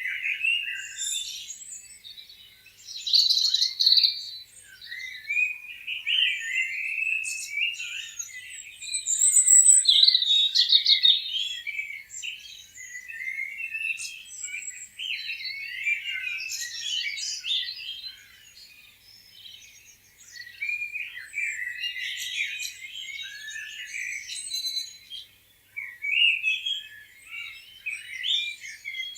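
Several songbirds chirping and singing at once, overlapping trills and warbling phrases that rise and fall in loudness, with no low sounds beneath them.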